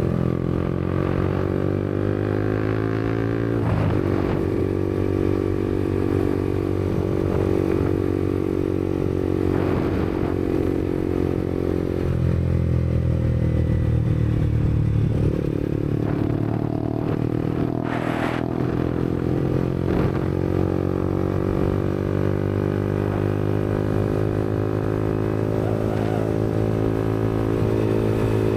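Yamaha MT-125's single-cylinder four-stroke engine through a Black Widow aftermarket exhaust, cruising, its pitch rising and falling several times with short breaks between. A brief rush of noise about two-thirds through.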